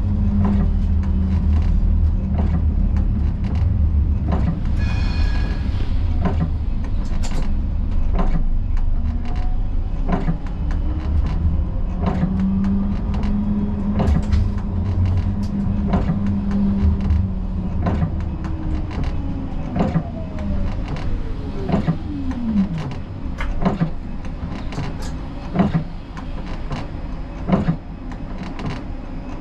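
Siemens Combino tram running on rails, heard from the driver's cab: a steady low rumble with repeated wheel clicks and a motor whine. From about twenty seconds in, a falling whine as the tram slows.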